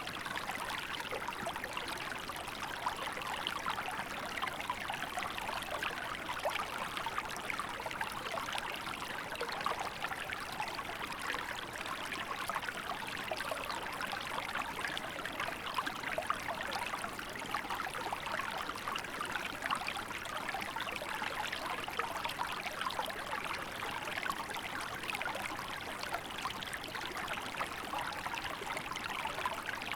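Small river flowing in winter, water running and trickling steadily over rocks with a constant splashing and babbling.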